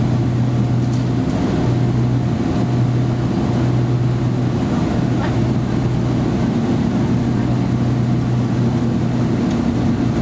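Steady low drone of a Boeing 777-300ER's engines and air systems heard inside the cabin, with the aircraft not yet at takeoff power.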